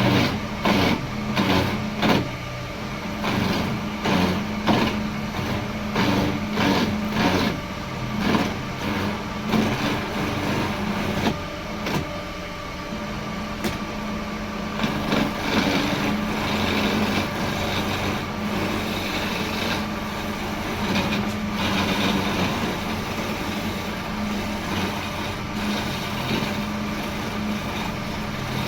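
An electric woodworking machine runs with a steady hum while wood is cut on it. The cutting comes as many short sharp strokes in the first half, then turns into a steadier, denser cutting noise.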